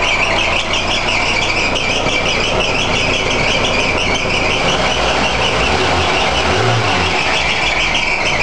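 1977 Opel Manta's four-cylinder petrol engine running steadily, freshly revived after years of standing with a new battery and fresh petrol.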